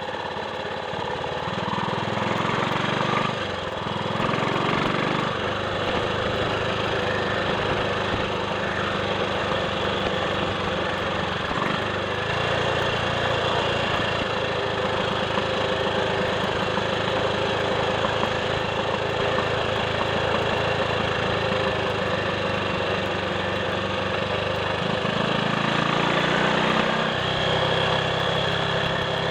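Triumph Sports Cub's single-cylinder four-stroke engine running on the road, its note changing pitch a few times as the revs rise and fall: shortly after the start, around twelve seconds in and again near the end.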